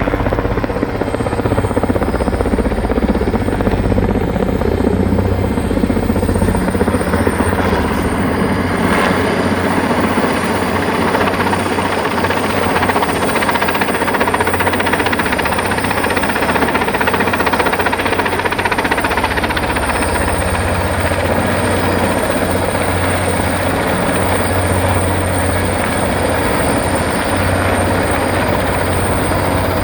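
Erickson S-64 Air-Crane heavy-lift helicopter running loud and steady: a low rotor beat under dense turbine noise, with a steady high whine on top.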